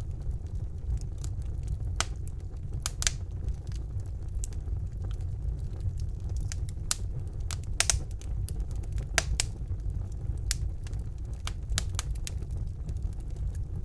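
Wood fire burning in a fireplace: a steady low rumble of the flames with sharp, irregular crackles and pops from the burning logs, some coming in quick pairs.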